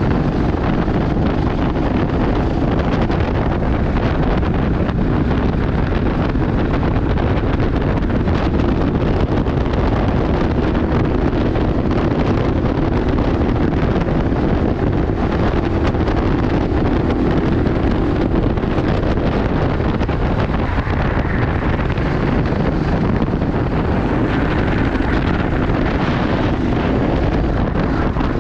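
Go-kart engine running continuously under racing load, with heavy wind buffeting the onboard microphone.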